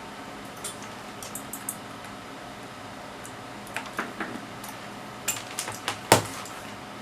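Scattered light clicks and small knocks of hard objects being handled, with a louder knock about six seconds in, over a steady low hum of running bench equipment.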